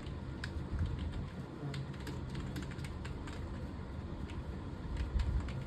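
Typing on a computer keyboard: a continuous run of irregular key clicks over a low background hum.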